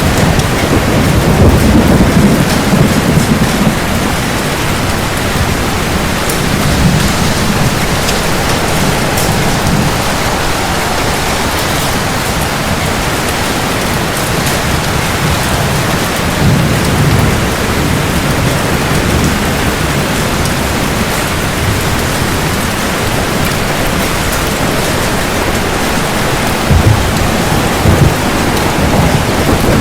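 Thunderstorm: steady heavy rain hissing and splashing, with low rolls of thunder swelling in near the start, around the middle and again near the end.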